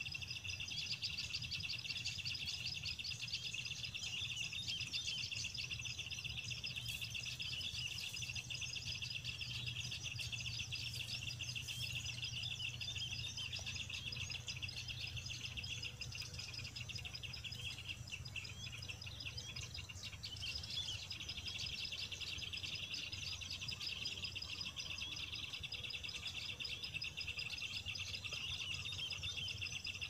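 Small birds chirping rapidly and continuously in high, quick notes, with a low steady hum underneath.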